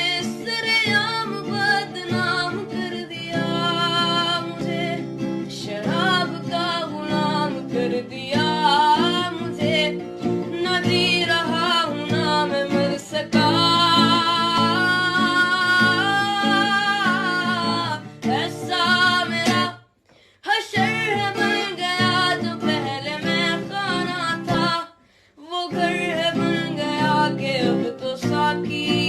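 A song: a singer with vibrato over a plucked guitar accompaniment, with two brief pauses in the second half.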